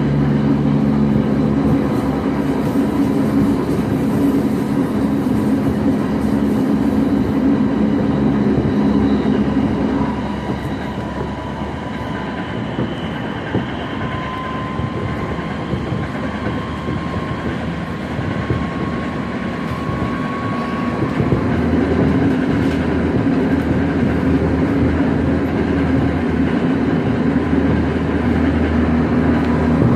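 Tokyo Metro 07 series train running, heard from inside the passenger car: wheels on rail with the hum of its VVVF inverter-driven traction motors. About ten seconds in it goes quieter and a faint high tone slowly rises, then the low hum and rumble build again after about twenty seconds.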